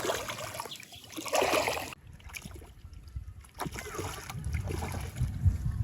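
Water splashing and sloshing, strongest about a second and a half in, with low bumping and rumbling in the last couple of seconds.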